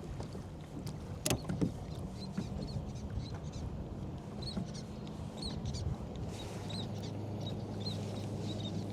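Open-water ambience from a kayak: a sharp knock about a second in, small birds chirping in short repeated calls from about halfway, and a steady low engine hum that grows stronger in the second half.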